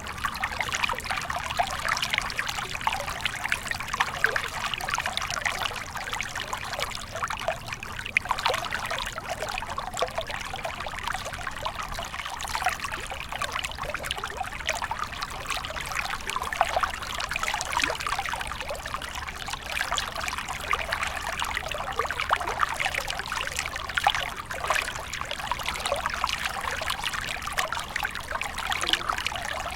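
Small stream flowing and splashing steadily, a constant babbling trickle with many small splashes.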